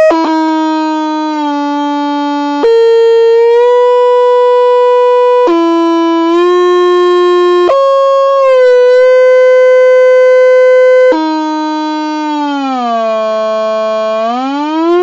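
A single loud, sustained pitched tone rich in overtones, holding one note at a time and jumping abruptly to a new pitch every two to three seconds, then sliding down and back up again near the end.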